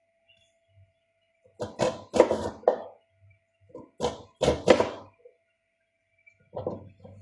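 Knife chopping on a cutting board: two runs of several quick strikes, then one more near the end.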